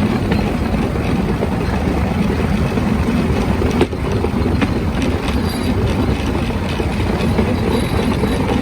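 Bamboo train (norry) running along the track: its small engine runs steadily under the clatter of the wheels on the rails, with a few sharp clicks from rail joints.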